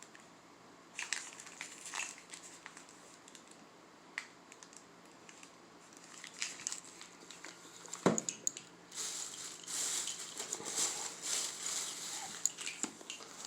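Crinkling and rustling of firework packaging being handled, with one sharp knock about 8 seconds in and denser rustling after it.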